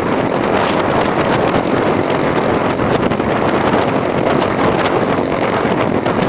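Steady rush of wind on the microphone over the running noise of a moving vehicle, without a break.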